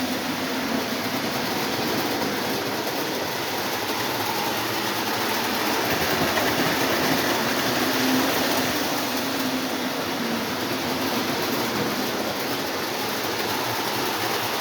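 Three 1950s Lionel 218 Santa Fe model diesel locomotives running steadily on metal track, pulling passenger cars: an even noise of electric motors and wheels on rail.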